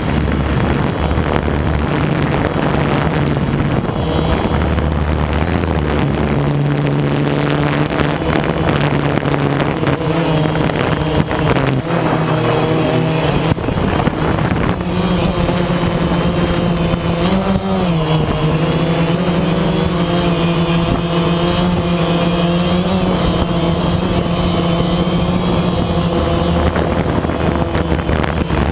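A motor vehicle engine running steadily with a low hum. Its pitch steps up slightly about halfway through, with a brief wobble just after.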